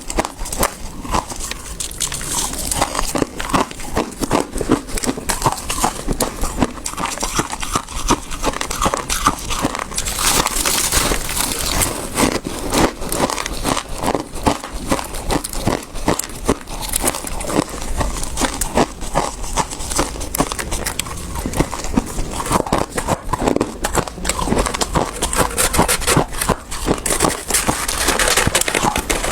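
Close-miked chewing and crunching of soft, powdery freezer frost, a dense, continuous crackle of many small crunches.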